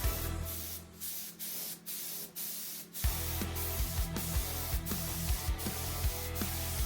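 Hiss of paint being sprayed onto the car's underbody, broken by a few brief pauses, under background music whose steady beat comes in about three seconds in.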